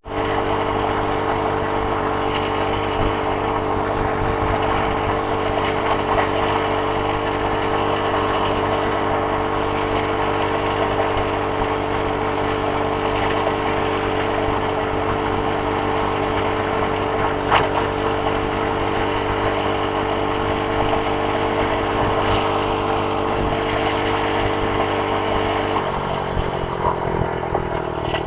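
Predator 212 single-cylinder mini bike engine running steadily at a fixed speed, its pitch dropping slightly near the end.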